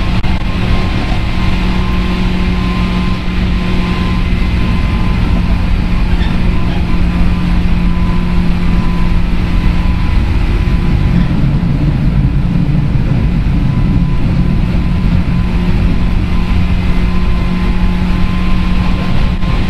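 Running sound inside a JR West 103 series electric commuter train's motor car (MoHa 103) under way: a loud, steady rumble of wheels on rail with a steady low hum, which wavers for a few seconds about halfway through.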